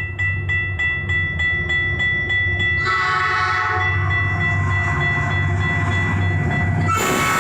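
Level-crossing bell ringing about three times a second over the low rumble of a train; about three seconds in a train horn sounds and is held for several seconds, and near the end a sudden loud, harsh noise cuts in.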